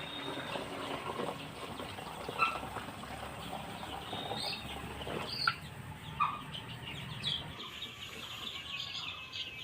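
Young Sonali chicks peeping now and then over a steady rushing noise of water being poured into a container, which dies away about three-quarters of the way through.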